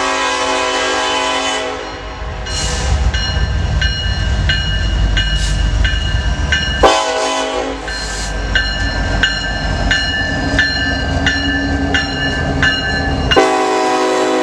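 Norfolk Southern diesel locomotive horn sounding on an approaching intermodal train: a long blast, a short blast about seven seconds in, and another long blast starting near the end, over the engine's low rumble. Between the blasts a ringing ding repeats about every three-quarters of a second.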